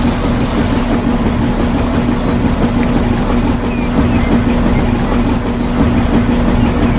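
A small motor running steadily with an even hum, with a few faint short chirps above it.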